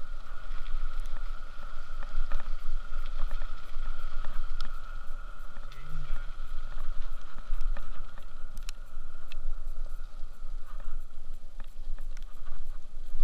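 Wind buffeting the microphone while on the move: a continuous low rumble with a steady high hum and scattered light clicks over it.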